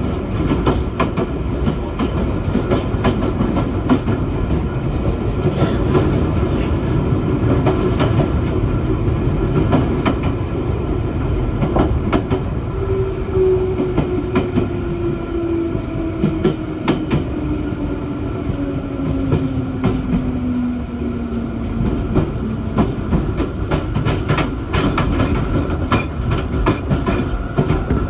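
JR East 205 series (1100 subseries) electric train running, heard from inside the car: a steady rumble of wheels on rail with repeated clicks from the rail joints. From about halfway in, a whine from the drive falls steadily in pitch as the train slows.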